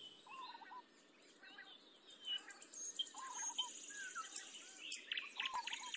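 Faint birdsong: short chirps and whistled calls from small birds, with a fast high trill through the middle.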